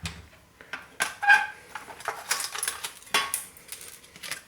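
Small metal parts of a dismantled floppy disk drive clicking and clattering as they are handled and set down, with a short squeaky note about a second in.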